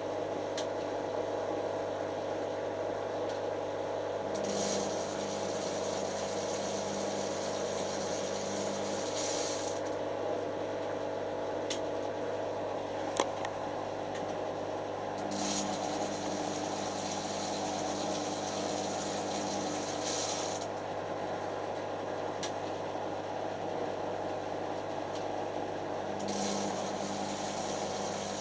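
Creda Simplicity W120VW washing machine running on test, its motor turning the drum with a steady mechanical hum that surges with a hiss every five or six seconds, plus a sharp click about halfway. The motor is struggling to put power in smoothly, and the owner suspects its brushes are fitted the wrong way.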